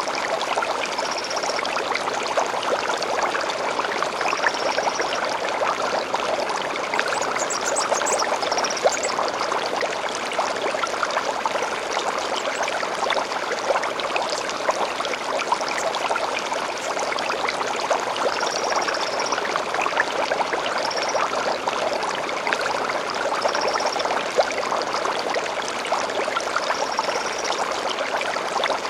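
A small stream babbling steadily, with short high bird calls every few seconds above it.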